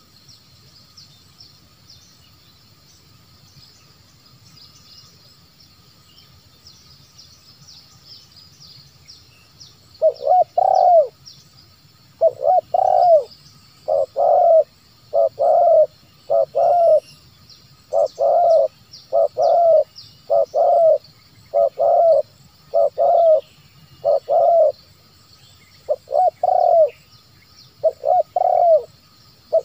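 Spotted dove cooing in a long series of short, loud phrases, about one every second or so, starting about a third of the way in. Before that there is only faint, rapid high-pitched chirping in the background.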